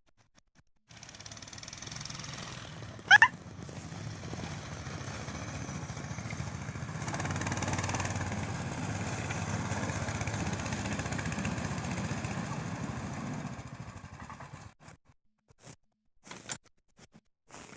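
Small 6.5 hp engine running as it hauls firewood. It starts about a second in, gets louder at about seven seconds and fades out near the end. A short, sharp squeal rising in pitch about three seconds in is the loudest sound.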